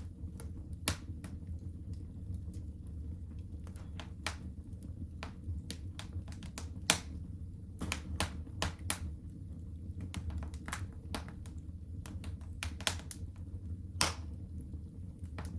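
Wood fire in a fireplace crackling: irregular sharp pops and snaps, a few much louder than the rest, over a steady low rumble.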